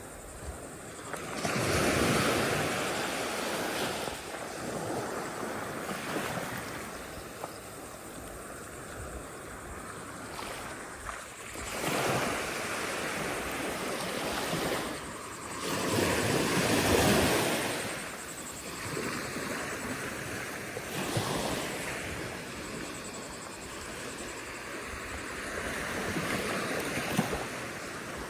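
Ocean surf breaking and washing up the beach, a steady rush with several louder surges, the biggest about two seconds in and around the middle.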